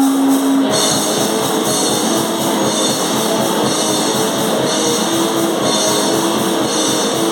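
A hardcore noise metal band playing live: distorted guitars and fast, pounding drums in a dense wall of sound. A held guitar note gives way to the full band under a second in.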